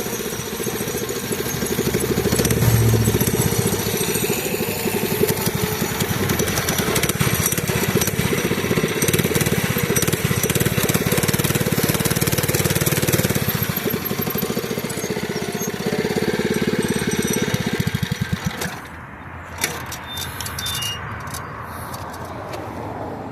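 Mini bike's small engine running steadily under throttle, then dropping away sharply about three-quarters of the way through, followed by a few clicks.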